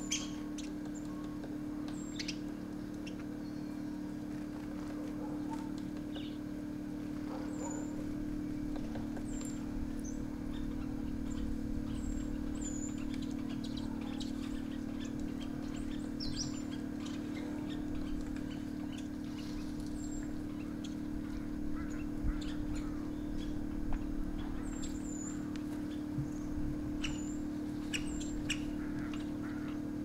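Birds giving short, high chirps every second or two, with a few sharp clicks, over a steady low hum.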